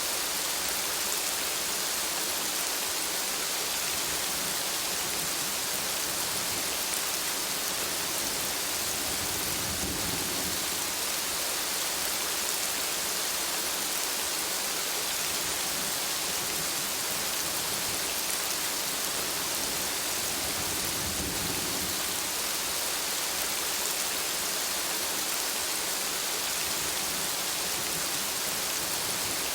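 Heavy rain falling steadily on jungle trees and palms, a dense even hiss. Two brief low rumbles rise under it, one about a third of the way in and one about two-thirds through.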